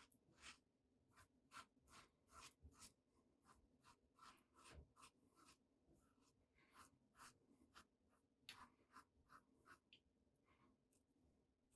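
Faint, short strokes of a Henson AL13 Mild safety razor with a sixth-use RK blade cutting stubble, about two to three strokes a second.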